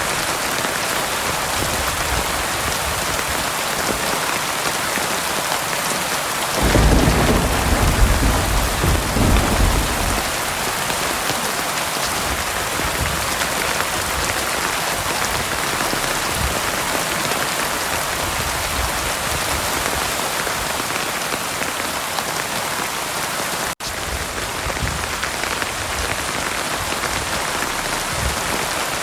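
Heavy rain falling steadily on a surface. About seven seconds in, a low rumble of thunder rolls for roughly three seconds. Later the sound drops out for an instant.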